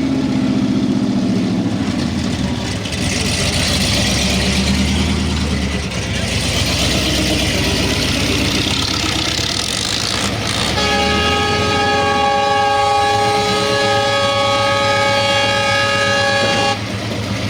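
A street stock pulling truck's gasoline engine running hard under load. About eleven seconds in, a loud multi-tone horn sounds a steady chord for about six seconds, then cuts off suddenly.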